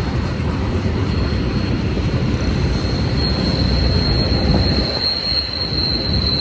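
Freight cars of a long manifest train rolling past with a steady low rumble. A thin, steady high-pitched wheel squeal sets in a few seconds in and grows louder.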